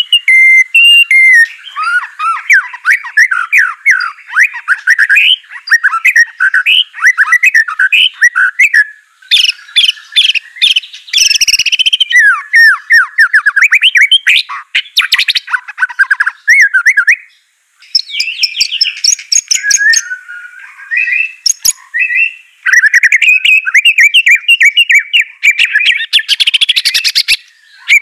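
White-rumped shama (murai batu) singing in fast, varied phrases of rapid sweeping chirps and trills, broken by a couple of short pauses.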